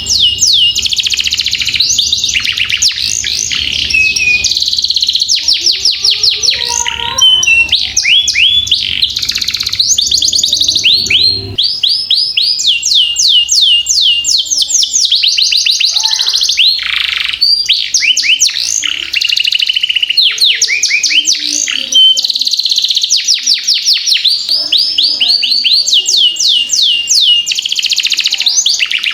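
Domestic canary singing a long, unbroken rolling song: rapid runs of repeated high notes and trills that change speed from phrase to phrase.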